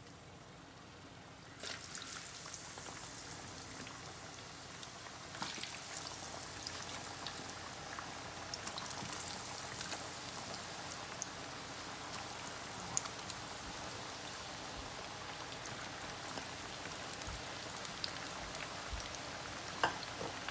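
Chickpea-flour-battered potato fries sizzling as they are dropped into hot oil in a deep pot. The sizzle starts suddenly about a second and a half in as the batch goes in, swells a few seconds later as more fries follow, then carries on steadily with scattered pops.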